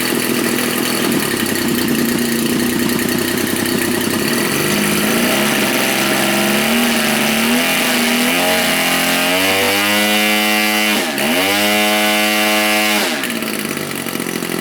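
Spark-ignition gas engine of a large-scale radio-control Stearman biplane on its first ground run. It idles at first, is throttled up in steps from about four seconds in to a high steady run, dips sharply and recovers around eleven seconds, and drops back toward idle a couple of seconds before the end.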